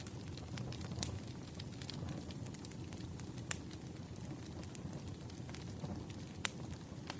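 Wood fire burning: a steady low rumble of flames with scattered sharp crackles and pops from the burning logs, two of them louder, about halfway through and near the end.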